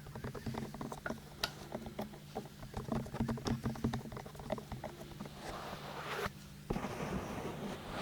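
Fingertips tapping quickly and lightly, many taps a second, close to a binaural microphone, giving way to a soft rubbing sound after about five seconds.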